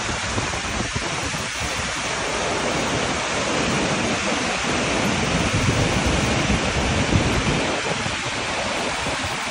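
Waterfall rushing: a steady, dense wash of falling water with a low rumble, a little louder in the middle.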